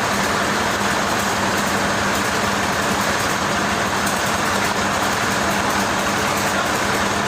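Heavy machinery running steadily, with a constant low hum under an even mechanical noise.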